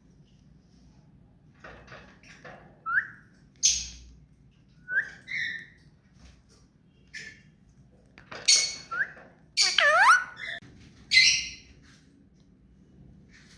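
Indian ringneck parakeet calling: a string of short squawks and chirps, some with quick gliding whistled notes, loudest around the middle and near the end.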